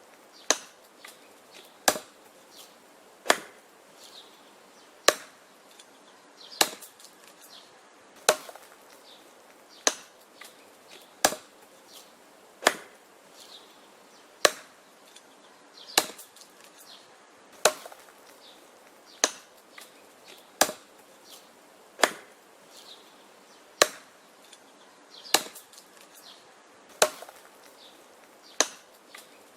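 Wood being chopped with an axe: sharp, steady blows at about one every one and a half seconds, with smaller knocks between some of the strikes.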